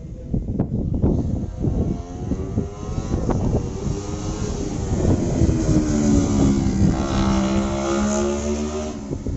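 Racing motorcycle engine at high revs going past: the engine note rises in pitch as it comes on, holds high and loud, then drops in pitch and fades as it passes, near the end.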